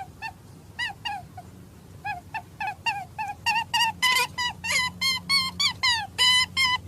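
Rapid series of short, high-pitched animal squeaks, sparse at first and quickening and growing louder to about four a second in the second half.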